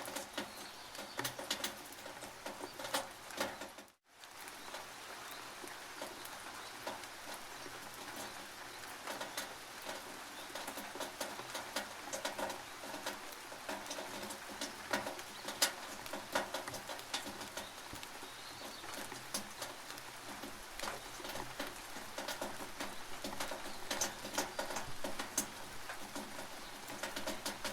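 Rain dripping and pattering on a tin roof: a dense run of sharp ticks over a steady hiss. It drops out for a moment about four seconds in.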